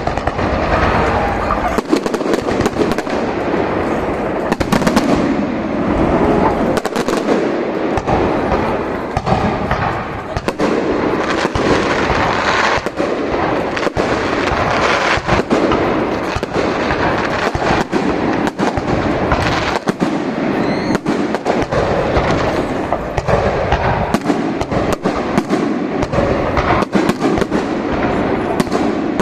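Fireworks display going off without pause: a dense run of booms and crackling bursts, one after another.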